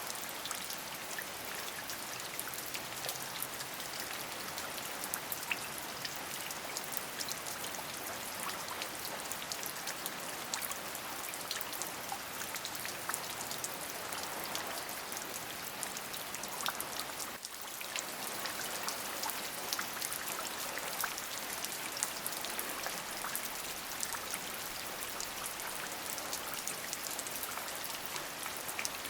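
Steady rain: a dense, even hiss of falling rain with many small drop ticks on top. The sound dips briefly about two-thirds of the way through, then carries on as before.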